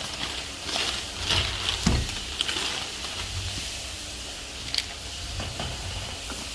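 Cardboard box and plastic packaging being opened by hand: uneven rustling and scraping with a few light knocks and clicks.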